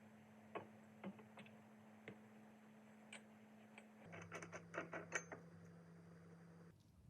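Faint, scattered light clicks and taps, with a quick run of them between about four and five and a half seconds in, over a low steady hum that cuts out shortly before the end.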